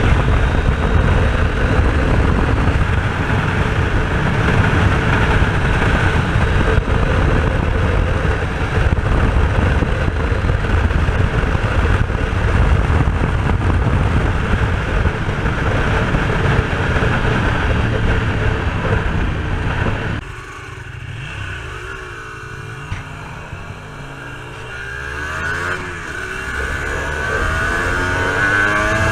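Two-stroke V-twin of an Aprilia RS250 motorcycle under way, its engine buried in heavy wind noise on the microphone. About twenty seconds in the wind drops away as the bike slows, and the engine note is heard falling and then climbing again as it accelerates.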